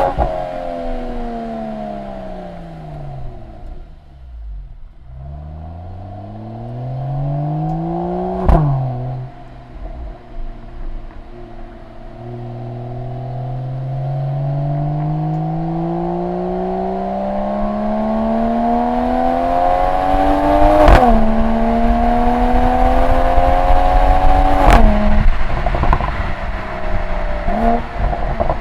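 Exhaust of a Mercedes-AMG E 53's turbocharged 3.0-litre inline-six through the AMG Performance Exhaust, heard close up at the tailpipe. The revs fall away for the first few seconds, then the engine pulls up through the gears in long rising sweeps. Three times a sharp crack comes with a sudden drop in pitch as the 9-speed gearbox upshifts.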